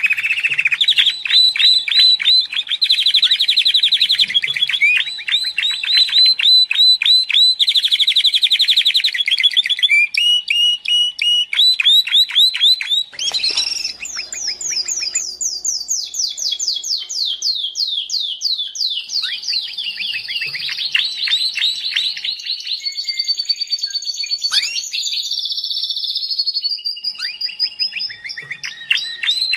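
Domestic canary singing in long, rapid trills and rolling runs of repeated high notes. About halfway through, a short break is followed by a switch to quick falling sweeps.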